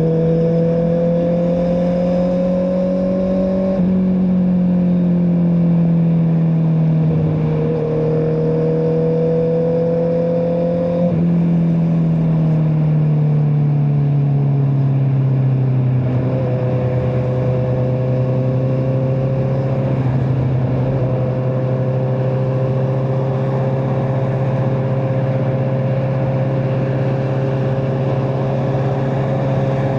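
Honda CBR650R's inline-four engine with an Akrapovic exhaust, heard while riding. Its pitch climbs, breaks and dips a few times in the first half, then holds steady at a cruise from about halfway.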